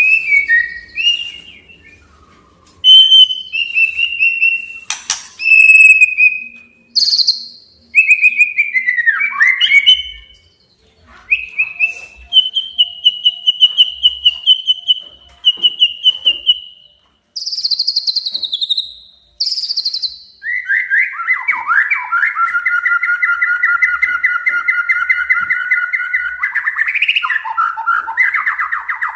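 White-rumped shama (murai batu) singing: a string of short, loud whistled phrases, several sliding down in pitch, with pauses between them, then from about twenty seconds in a long, fast, rattling trill.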